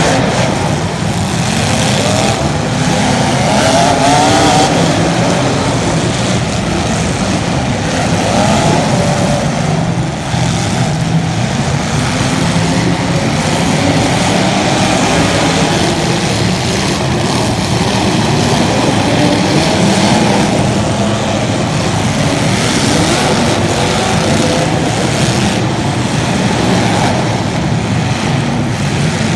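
Several small racing engines running on a track, their pitch rising and falling as they rev through the laps.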